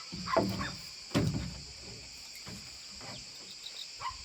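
Steady high-pitched insect buzzing, with two loud knocks in the first second and a half and a few fainter knocks after.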